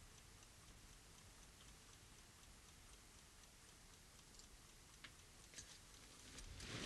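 Near silence, with faint, evenly spaced ticking throughout and a soft rustle just before the end.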